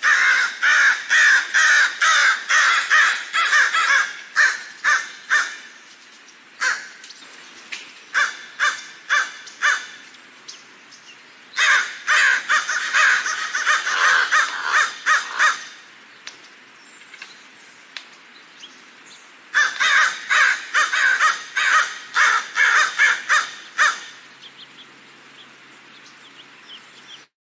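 Crows cawing: three loud bouts of rapid, overlapping caws, separated by a few scattered single caws and short lulls.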